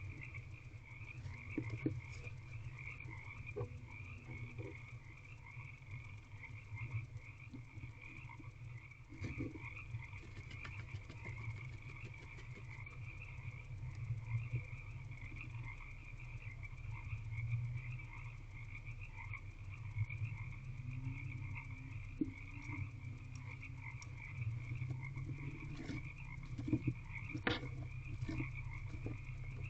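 A chorus of frogs croaking continuously, a dense fast pulsing trill, over a steady low hum, with a few faint knocks, the clearest near the end.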